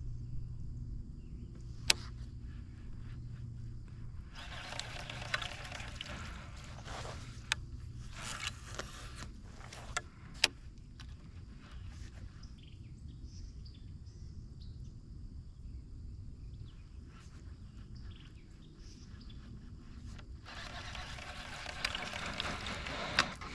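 Low steady outdoor rumble on a kayak, with a few sharp clicks and knocks and three stretches of hissing noise, the last starting near the end.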